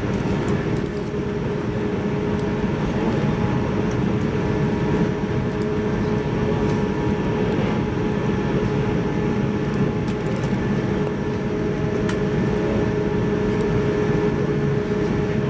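JR 185 series electric train running: a steady rumble with a constant hum and a few faint clicks.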